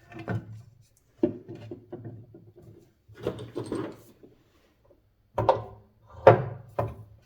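Knocks and rattles of metal fan-motor parts being handled and fitted together, in about six separate bursts, the loudest near the end.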